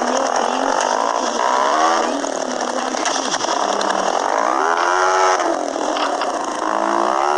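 Motorcycle engine running while riding, its pitch rising and falling several times as the rider opens and closes the throttle.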